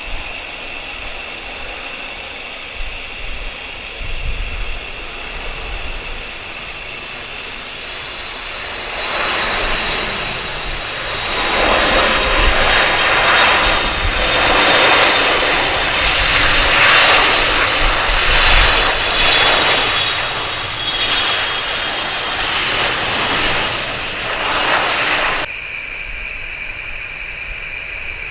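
Turbofan jet engines of a Qatar cargo airliner, a steady high whine that swells into a loud rush about nine seconds in, then drops off suddenly near the end.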